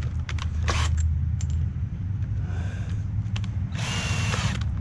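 Power drill running in steady spurts, driving a 2½-inch wood screw into a 2x4, with a few sharp clicks and a short noisy burst about four seconds in.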